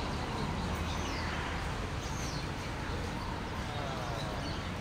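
Outdoor park ambience: a steady low rumble, with a bird giving short high calls that fall in pitch, a few times about a second apart.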